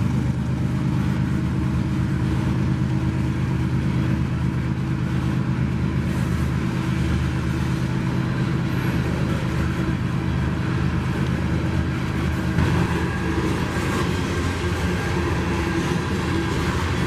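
An engine running steadily with a low, even drone and no change in speed.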